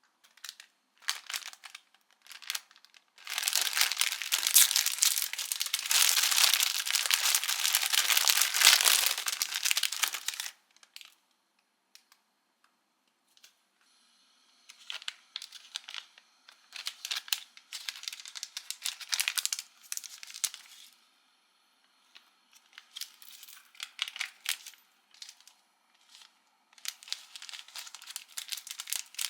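Plastic packets of instant food crinkling as they are handled and opened. There are a few short bursts, then a long loud stretch of crinkling from about three to ten seconds in, then shorter bouts with pauses between.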